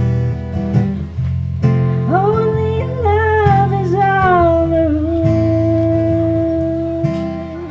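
Live music: a strummed acoustic guitar, joined about two seconds in by a woman singing a wordless vowel that winds up and down, then settles into one long steady note held until near the end.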